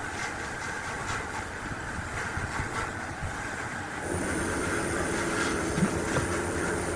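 Steady mechanical rumbling noise from a running machine. About four seconds in it grows a little louder and a thin, high steady whine joins it.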